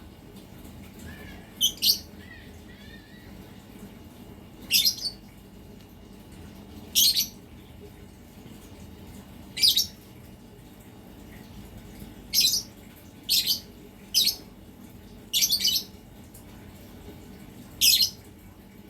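Lovebird giving short, shrill calls, about ten over the stretch, spaced a second or two apart and some coming in quick pairs.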